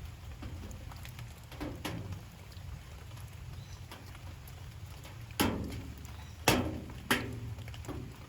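Light rain falling, with a steady low rumble underneath and several sharp taps that ring briefly: a soft one near the start and three loud ones in quick succession past the middle.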